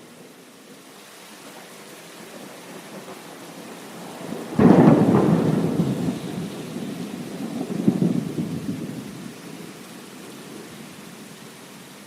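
Steady heavy rain with a thunderclap: a sudden crack a little under halfway through, followed by rolling rumble that swells again a few seconds later and dies away.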